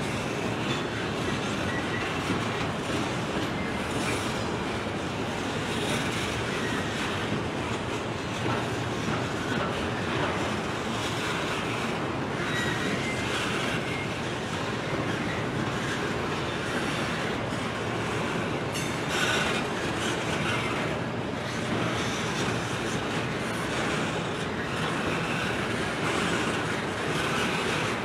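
Railroad cars rolling past on the track: a steady rumble of wheels on rail, with brief wheel squeals now and then and a short louder clatter about two-thirds of the way through.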